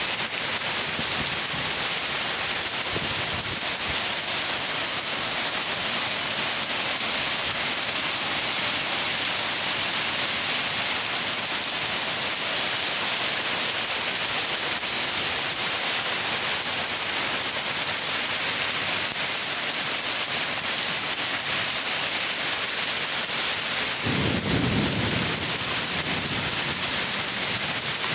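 Heavy rain falling in a steady, even hiss. A low rumble of thunder rolls in near the end.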